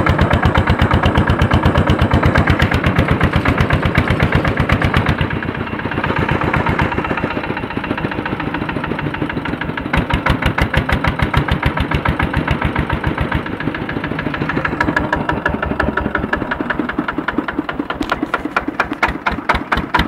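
Tractor's Andoria diesel engine running with rapid, evenly spaced exhaust beats. It eases off about five seconds in and picks up again about halfway through.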